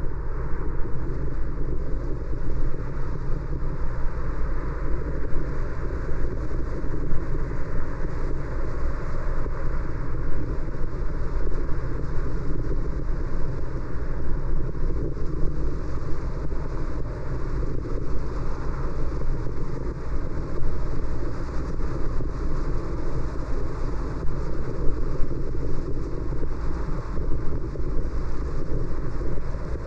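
Steady noise of a car driving: tyre and engine noise, even throughout with no distinct events.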